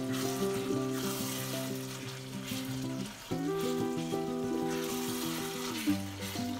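Minced meat and vegetables sizzling in a frying pan as they are stirred with a spatula, a steady hiss. Background music with held chords plays under it, changing chord about three seconds in and near the end.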